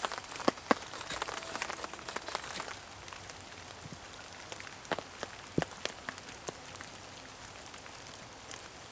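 Rain falling, with many sharp separate taps of drops over a steady light hiss; the taps come thick over the first three seconds, then scattered.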